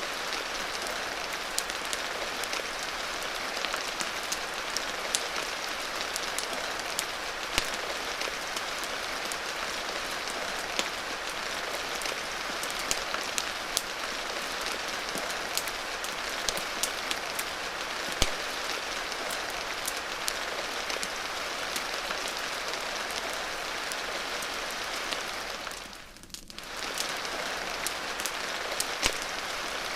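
Steady rain hissing, dotted with many scattered sharp ticks and crackles; the sound briefly dips and returns near the end.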